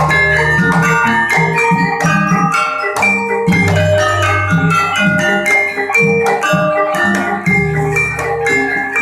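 Gamelan-style dance music: many struck mallet and metal tones in a quick, dense pattern over long, low ringing tones.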